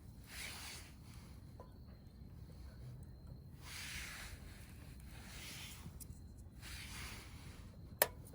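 Wood bonfire burning: soft hissing swells every second or two, and one sharp pop of burning wood near the end.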